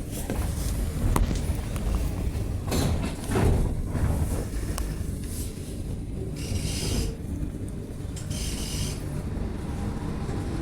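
Alstom NS-16 metro train heard from inside the car as it sets off from the station, with a steady low rumble of running gear. Knocks come in the first few seconds, and two short hisses follow later.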